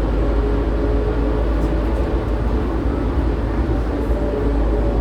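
Automated airport people-mover tram running between stations, heard from inside the car: a steady low rumble with a motor whine of several tones that drift slightly in pitch.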